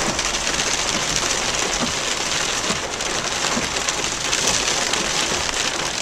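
Hail pelting a car as it is driven through a hail storm, heard from inside: a dense, steady clatter of many small hits.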